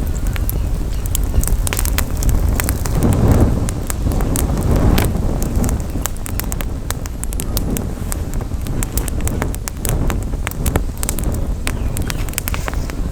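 Campfire crackling, with frequent sharp pops and snaps, under a heavy low rumble of wind on the microphone that swells a few seconds in.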